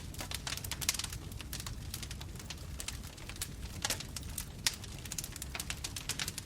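Wood bonfire burning, with frequent sharp crackles and pops over a low steady rumble of flames; a few louder pops stand out, about one second in and twice more later.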